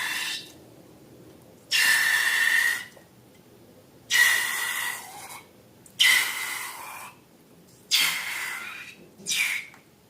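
Five breathy hissing bursts, each about a second long and about two seconds apart, with a faint whistle-like tone in each.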